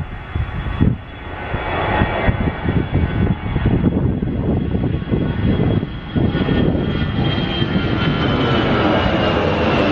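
Jet airliner's engines heard close by, with a high whine that slowly falls in pitch as the sound grows and then holds loud and steady. Wind buffets the microphone in gusts during the first seconds.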